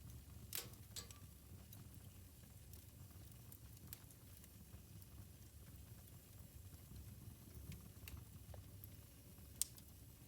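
Wood fire burning in a fireplace: a soft low rumble of the flames with scattered sharp pops and crackles, a few close together about half a second to a second in and the loudest single pop near the end.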